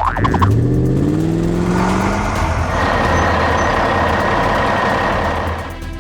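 A motor vehicle engine sound effect revving up, its pitch rising over the first two seconds or so, then running on steadily with a rough, hissing rumble.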